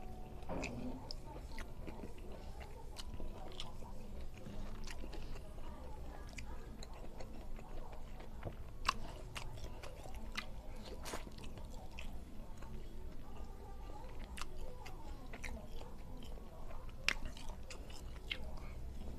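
Close-up chewing and biting of a person eating rice and chili-coated fried fish by hand, with many scattered sharp clicks and two louder ones, about nine and seventeen seconds in.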